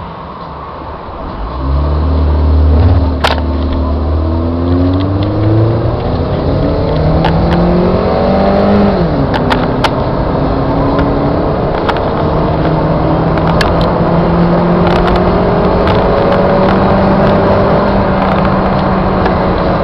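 Toyota Corolla engine running on compressed natural gas, accelerating hard from a standstill through the gears. The engine note jumps up about two seconds in and climbs in pitch. It drops sharply at a gearshift near the middle, then climbs again and settles into a steady note, with scattered clicks.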